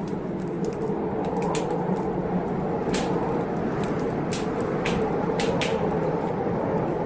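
Wood fire in a fireplace crackling, with irregular sharp pops, over a steady low rush of rain.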